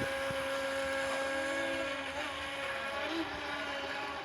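Radio-controlled toy boats' motors running out on the water: a steady high-pitched whine that holds nearly the same pitch, with a lower tone that wavers slightly.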